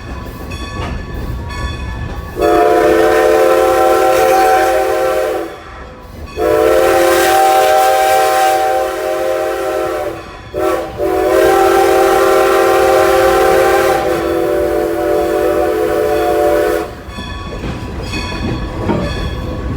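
Steam locomotive whistle blowing two long blasts, one short and one long, the standard signal for a train approaching a road crossing. Under the whistle runs the low rumble of the moving train.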